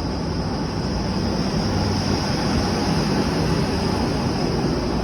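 Trane dedicated outside air (DOAS) unit running: a steady rush of fan-driven air with a low hum underneath.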